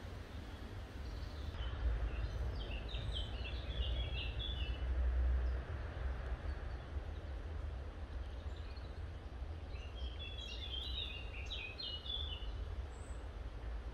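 Songbird singing two phrases of quick, short notes, the first about two seconds in and the second about ten seconds in, over a steady low rumble.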